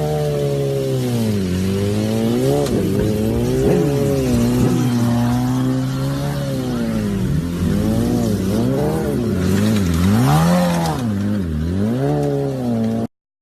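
Motorbike engine revving, its pitch rising and falling again and again, until the sound cuts off suddenly near the end.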